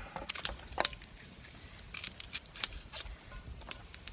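Scattered light clicks and taps of small camp cooking gear being handled, coming irregularly.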